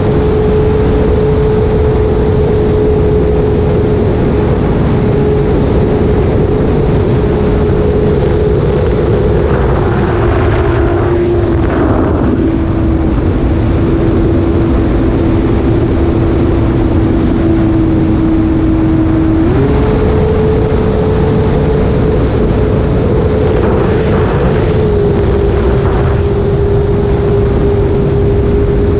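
Electric motor and propeller of an E-flite Air Tractor RC model plane running steadily in flight with a loud, even whine and rushing noise. The pitch drops slightly about twelve seconds in and steps back up about twenty seconds in as the throttle changes.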